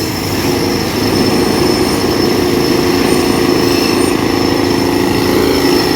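Heavy diesel dump truck engine running steadily, with a thin high whine over it. The sound gets a little louder about a second in.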